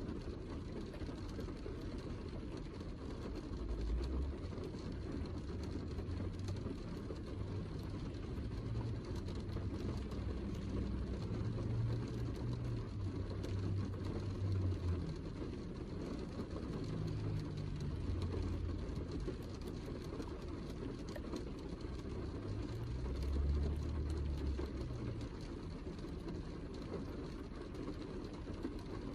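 Heavy rain, a steady dense hiss, with a low rumble underneath that swells and fades several times.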